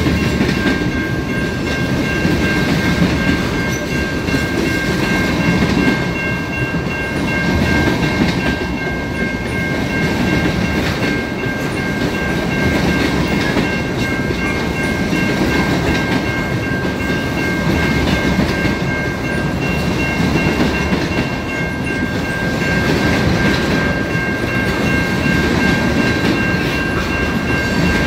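A train rolling through a level crossing, its cars rumbling and clattering over the rails with a swell about every two seconds. Steady high-pitched ringing tones sound throughout.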